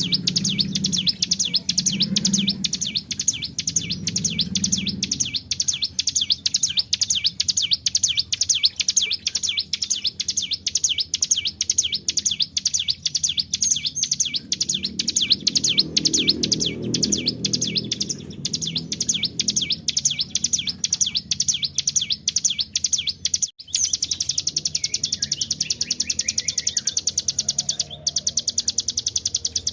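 Hill prinia (ciblek gunung) song, played as a lure recording: a long, unbroken run of rapidly repeated high notes, the continuous "ngebren" delivery. About three-quarters of the way through it changes to a faster, denser trill.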